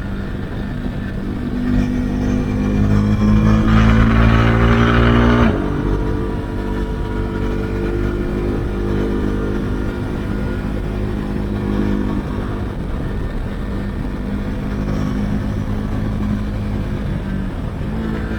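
Husqvarna Svartpilen 401's single-cylinder engine through an Akrapovic exhaust with the dB-killer removed, accelerating with a rising pitch and growing louder from about two seconds in. It drops sharply at about five and a half seconds, as at a gear change or closing the throttle, then runs on steadily at cruising speed.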